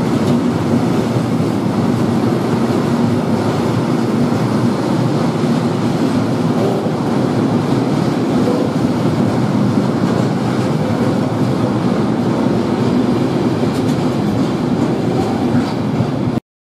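Red open box wagons of a freight engineering train rolling past at speed, a steady noise of steel wheels on the rails that cuts off suddenly near the end.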